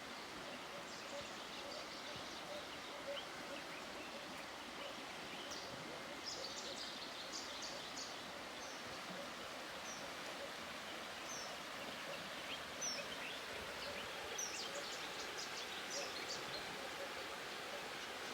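River water running steadily, with short high bird chirps scattered over it, coming in small clusters in the middle and again near the end.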